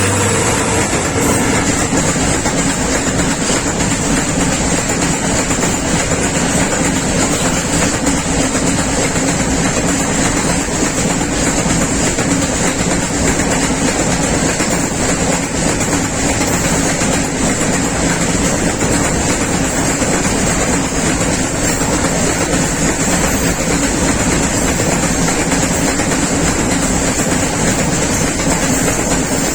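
Freight train rolling past at speed, a steady rumble and rattle of wagons with wheels clattering over the rail joints.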